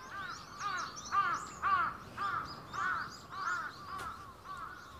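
A bird's short calls repeated in a run, about two a second.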